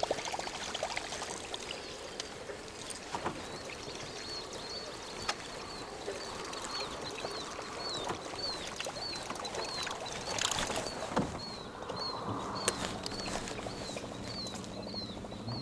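Water lapping and trickling around a small fishing boat, with a bird repeating a short high chirp about twice a second through most of it and a few scattered clicks. A faint low hum comes in near the end.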